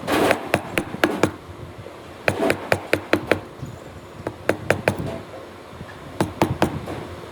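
Sharp knocks of a striking tool on wood, coming in four quick runs of about four to six blows each with short pauses between, as the wood of a hand-cut dovetail joint is worked.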